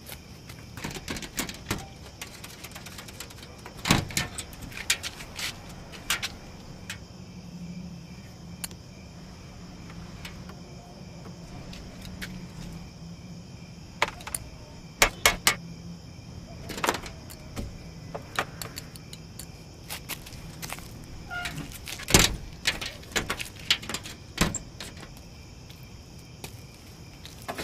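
Irregular metallic clicks, knocks and clanks of an auto rickshaw being handled after it has broken down, with a few sharper knocks about four seconds in and again near twenty-two seconds, over a steady low hum and the thin steady chirp of crickets.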